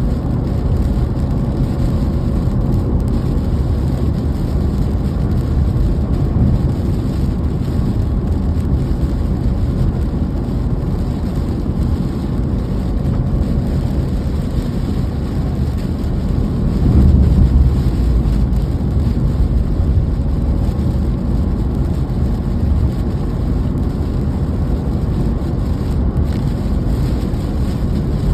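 Steady rain noise under a heavy low rumble that swells briefly about seventeen seconds in.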